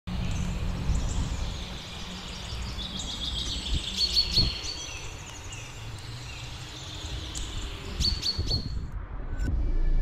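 Small birds chirping and trilling outdoors, with many quick high calls from a few seconds in until near the end, over a steady low rumble of outdoor background noise.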